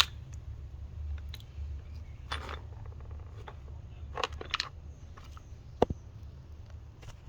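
A few light clicks and clatters of small hard objects being handled over a steady low hum, with one sharp ringing clink about six seconds in.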